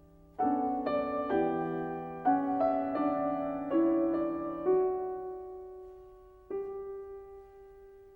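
Slow solo piano music: a run of chords struck about every half second to a second, then single notes held and left to fade.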